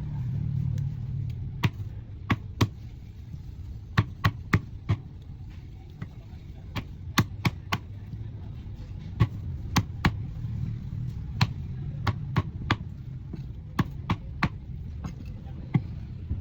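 Irregular sharp knocks and taps of kitchen utensils, one to three every second or so, over a steady low hum.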